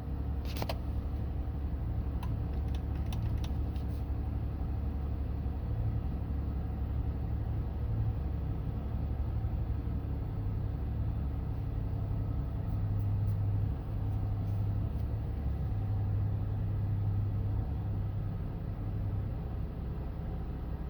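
Kia Sorento engine idling steadily, a low rumble heard from inside the car, with a few light clicks in the first few seconds.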